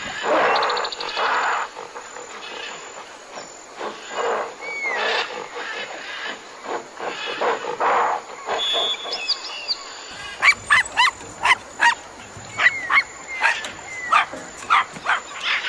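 Animal calls in turn: rough, noisy calls for the first ten seconds or so, then a small dog, a Pomeranian, yapping in short, sharp barks about two a second.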